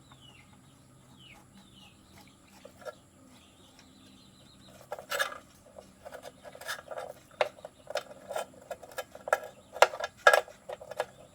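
Irregular sharp clicks and knocks of hand work on diesel engine parts, starting about five seconds in and loudest near the end. Before that, small birds chirp faintly over a low hum.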